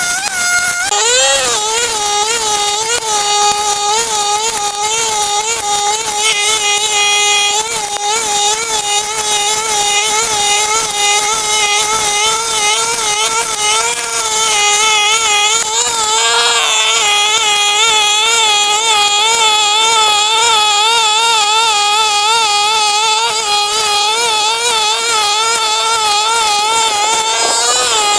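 Brush cutter engine running at high speed while its blade cuts weeds, a steady whine whose pitch wavers up and down about twice a second as the blade sweeps.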